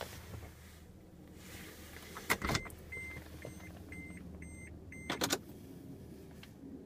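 Toyota Tundra cab with the engine off: two sharp clunks about three seconds apart, and after the first a short high electronic chime that keeps repeating, like the truck's warning chime.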